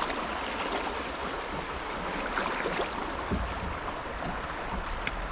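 Fast river current rushing around a canoe in spring high water, a steady wash of water noise; a low rumble joins in a little past halfway.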